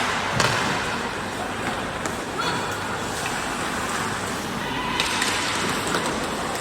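Game noise in a sports hall: a steady din of distant voices and movement, broken by a few sharp knocks and thuds, one about half a second in and a few more near the end.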